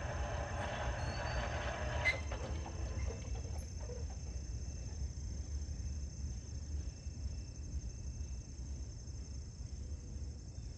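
Passing freight train's rolling noise dying away over the first three seconds, leaving a steady low rumble and a steady high-pitched buzz.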